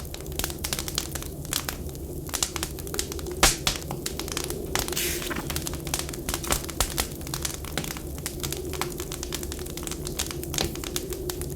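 Wood fire crackling, with frequent irregular pops and snaps, one louder pop about three and a half seconds in, over a steady low background rumble.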